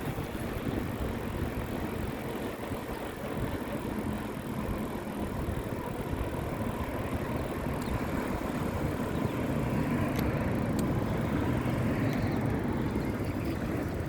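Wind noise on the microphone and road rumble from riding a bicycle along a road, getting somewhat louder in the second half.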